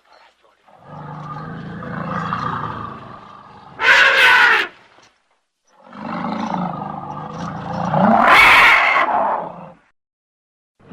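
Two elephant calls with dead silence between them. Each is a rough, rumbling roar that swells into a loud, shrill blast, the first about four seconds in and the second around eight to nine seconds in.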